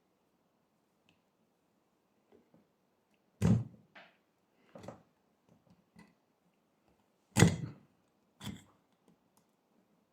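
A few separate knocks and clunks of metal parts and tools being handled and set down on a work surface, two of them much louder than the rest, with quiet in between.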